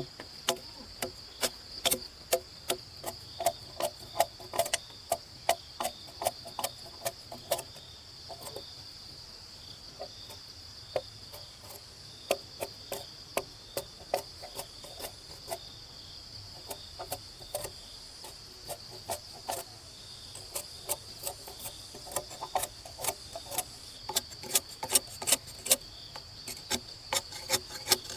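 Repeated sharp strikes of a hand tool on wood, one to two a second, that thin out for a few seconds in the middle. A steady high insect buzz runs underneath.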